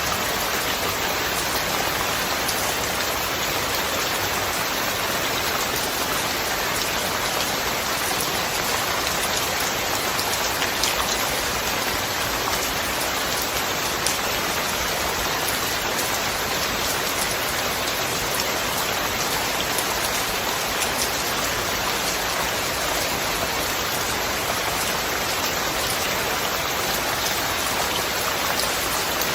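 Steady rain falling and pattering on surfaces, with many individual drops ticking through an even hiss.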